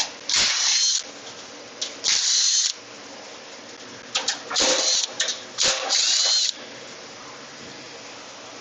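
Cordless drill driver backing out sheet-metal screws from an AC unit's top access panel in four short runs, each a second or less, the motor's whine rising as it spins up.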